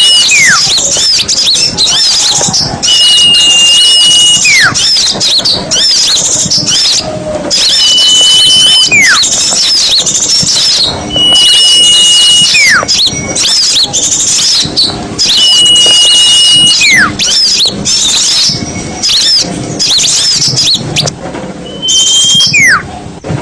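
Bird-lure recording of small songbirds calling busily, with rapid high chirps throughout. A whistle comes back about every four seconds: one steady high note held for about a second, then sliding steeply down.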